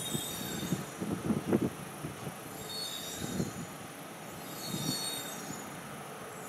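Shinkansen bullet train running away over the track: a low rumble with rapid clicks of wheels over the rails. It fades after the first couple of seconds, and faint high-pitched tones come and go.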